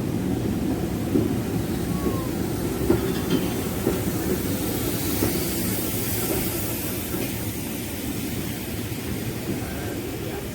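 Steam-hauled passenger train running along the rails with a steady rumble that slowly fades.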